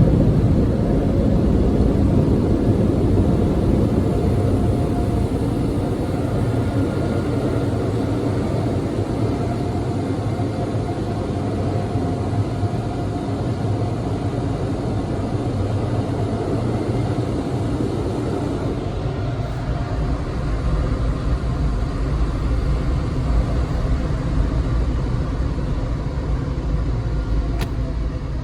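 Steady low rumble of a car, its engine and road noise.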